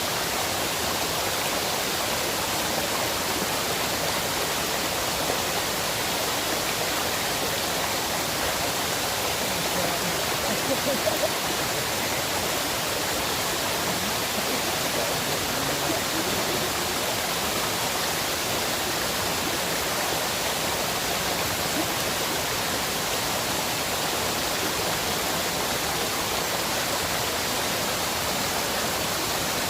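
River water rushing steadily, with a brief slightly louder patch about eleven seconds in.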